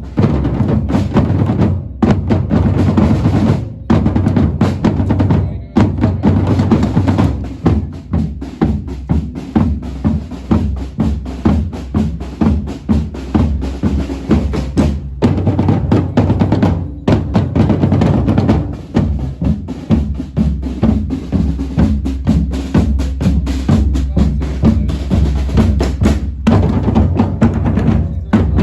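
Drums playing: bass drum and snare drums beating with rolls.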